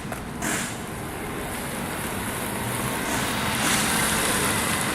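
Road traffic noise, a steady rush that swells as a vehicle passes about three to four seconds in.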